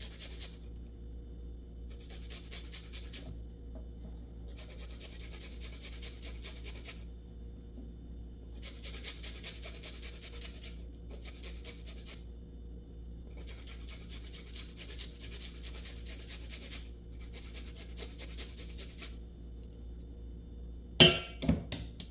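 Food being rubbed over a hand grater in a series of rasping bursts of quick strokes, each a second or two long with short pauses between, as ginger or garlic is grated. A few sharp knocks near the end.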